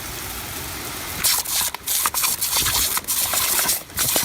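Loud rushing noise, rising about a second in and then coming in gusts with short breaks.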